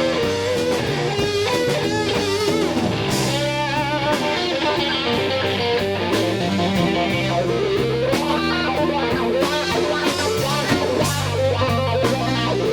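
Slow blues played by an electric guitar, bass and drum trio: the electric guitar plays a lead line of bent and shaking notes over the bass and drums.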